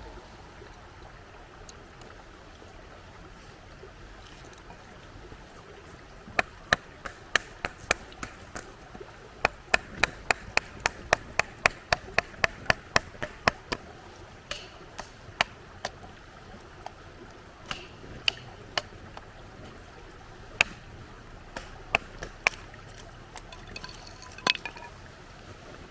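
Chopping: a run of sharp knocks, about two a second, that slows to scattered single strikes, over a faint steady rush of river water.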